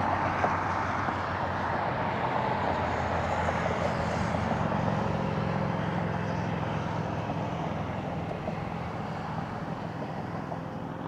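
Boeing 737-800's CFM56-7B jet engines at takeoff thrust: a steady, dense jet noise with a thin whine over it, slowly fading toward the end.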